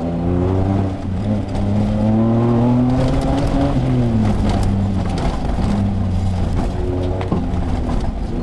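Rally-raid 4x4's engine pulling hard, heard from inside the cabin. The revs climb for a couple of seconds, drop about four seconds in, then hold steady, with another brief dip near the end.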